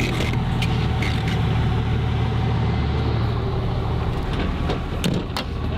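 Heavy rescue vehicle's engine running steadily in a low drone, with a few sharp knocks about a second in and again near the end.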